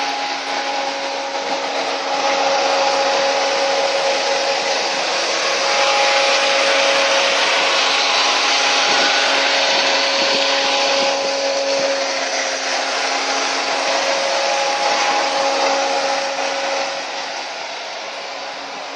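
Electric radiator cooling fans running with a steady rushing whir and a few steady hum tones, drowning out the idling turbocharged 5.3 V8. The whir grows louder about two seconds in and eases off near the end.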